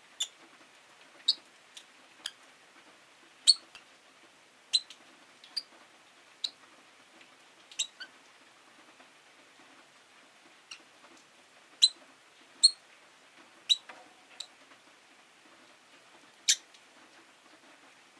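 Rosy-faced lovebirds giving short, sharp, high-pitched chirps, one at a time at irregular gaps of about a second, over a faint steady low hum.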